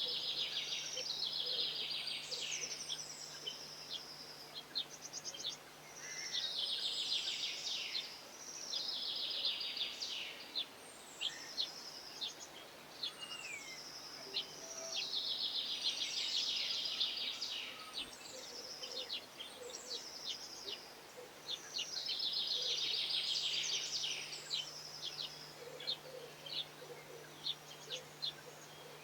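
A songbird singing repeated high phrases, each a few seconds long, made of quick notes and dense fast trills. A new phrase begins every few seconds, with scattered short chirps in between.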